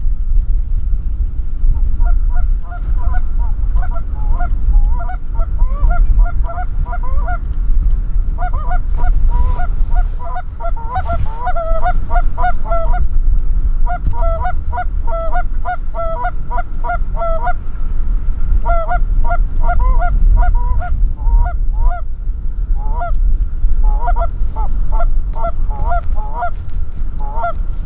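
Geese honking in rapid, overlapping runs of short calls, coming in groups with brief gaps, over a heavy low rumble of wind on the microphone.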